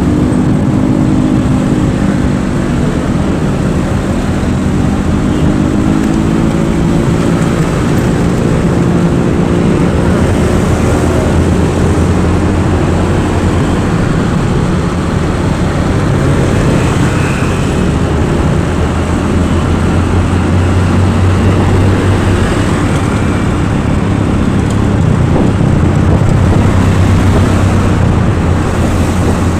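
Motor vehicle on the move: engine running with constant road and wind noise. The engine note shifts in pitch over the first several seconds, then settles into a steady low drone.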